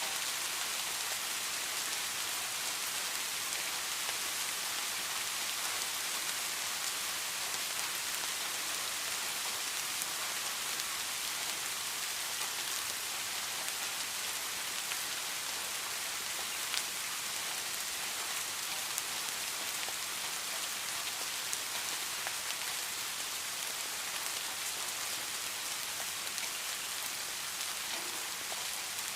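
Steady rain falling, a dense even hiss with a few sharper ticks of single drops now and then.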